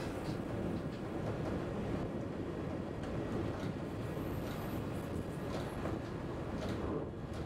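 Passenger train running along the line, a steady low rumble heard from inside the driver's cab, with a few faint clicks.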